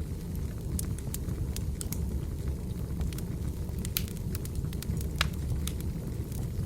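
Wood fire burning, with irregular sharp crackles and pops over a steady low rumble of the flames; the loudest pops come about four and five seconds in.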